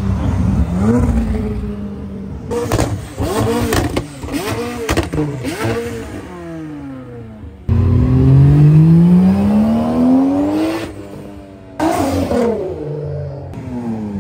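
Performance car engines accelerating hard, pitch climbing through the revs, in several short clips that cut in and out abruptly. The middle holds a run of quick rev blips rising and falling, about eight seconds in one engine makes a long rising pull, and near the end the engine tones fall away.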